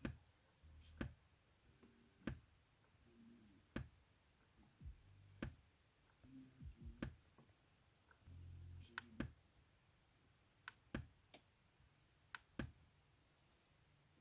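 Computer speakers with the volume at zero giving sharp clicks, irregularly about every one to two seconds, with a few short low hums between them: an unexplained knocking from the speakers that their owner is asking about.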